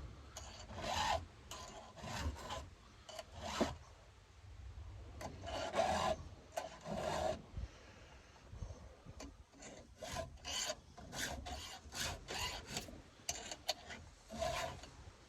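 Hand file rasping across the cutter teeth of a 3/8 saw chain in a series of strokes, spaced out at first and quicker in the second half: sharpening a blunt chain whose cutters are rounded off and not taking chips.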